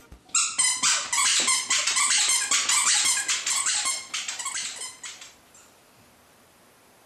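Squeaky dog toy squeezed over and over, a fast run of high squeaks at about four a second that stops about five seconds in.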